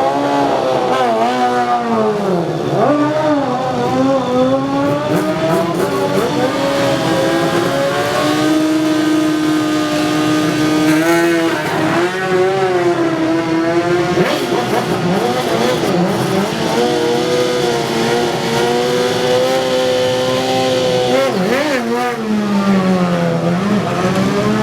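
Several 1000 cc racing superbike engines revving hard together, their pitch holding high, then dipping and climbing again as throttles are blipped and released.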